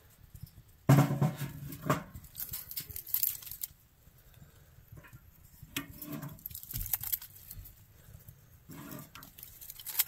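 Small sticks of kindling being handled and fed into a small wood stove: scattered clicks, knocks and rustles of wood, with a louder, fuller sound about a second in.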